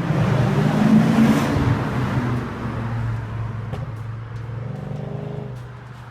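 BMW E38 740i V8 engine with its rear mufflers removed and catalytic converters gutted, revving hard over the first two seconds, then running steadier and fading, with one short rise in revs near the end.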